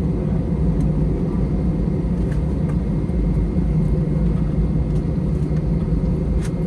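Steady low cabin rumble of an Airbus A321 with IAE V2500 engines, heard from a passenger seat while the jet is on the ground after landing. A faint click comes near the end.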